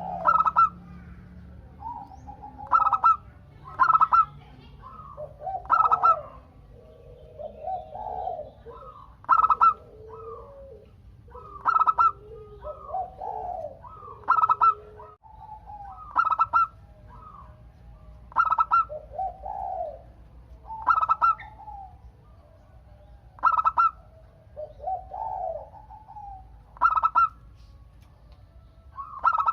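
A zebra dove (perkutut) singing its cooing song. Loud, short calls repeat every one to three seconds, with softer, lower coos between them.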